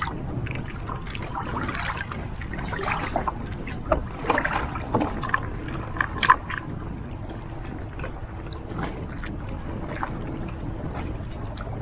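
Irregular knocks and clicks from handling on a fishing kayak, busiest in the middle, over a steady low rumble of wind and water.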